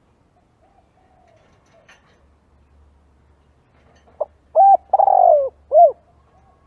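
Spotted dove cooing: faint coos at first, then about four seconds in a loud phrase of four notes, the third drawn out longest.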